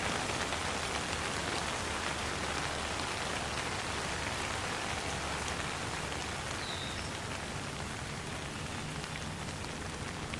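Steady rain falling as an even hiss, with scattered sharper drop hits. There is a single short, high chirp about six seconds in.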